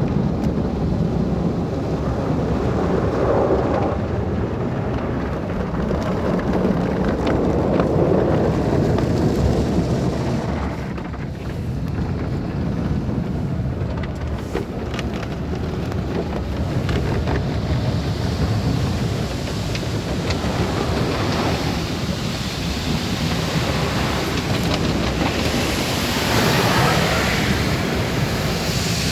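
Automatic drive-through car wash at work on a car: water spray and washing equipment on the body make a steady rushing noise that swells and eases in places.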